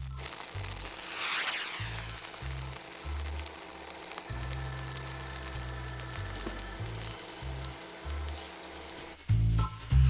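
Curry leaves, then sliced onions, sizzling steadily in hot oil in a pan. Background music with a pulsing bass line plays underneath and grows louder about nine seconds in, when the sizzling drops away.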